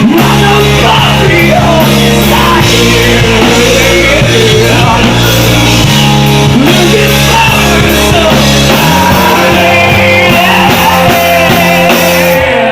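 Rock band playing loudly, with a singing voice over guitar, bass and drums.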